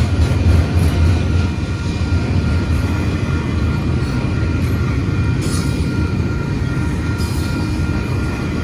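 Freight train rolling past on the rails: a steady rumble of cars and wheels, heaviest in the first second, with a faint thin ringing tone held above it.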